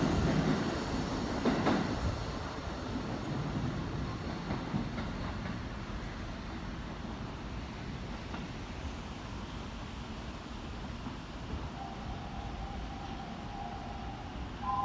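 Keikyu 1000-series six-car electric train pulling away, its wheels clattering over the rail joints, the running sound fading as it draws off into the distance. A steady tone starts near the end.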